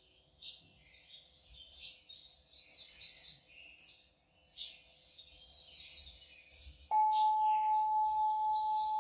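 Birds chirping and twittering continuously. About seven seconds in, a singing bowl is struck and rings on with one steady, clear tone.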